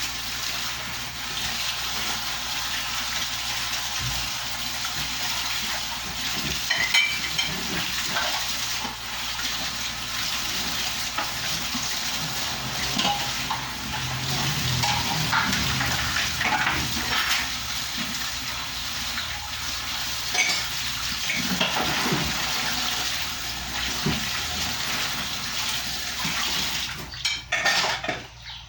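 Kitchen tap running into a sink while dishes and cutlery clink and knock as they are washed. The water cuts off near the end.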